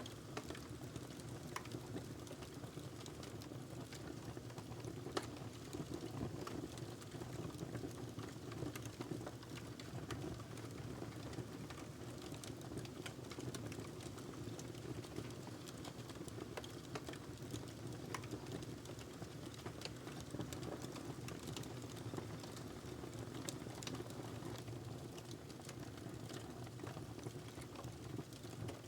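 Wood fire burning in a fireplace: a steady low rush of flames with frequent small crackles and pops, one sharper pop about five seconds in.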